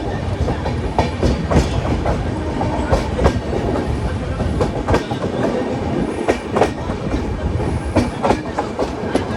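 Tapti Ganga Express passenger train running at speed, its wheels clattering over the rail joints with a steady rumble and many sharp, irregular clicks.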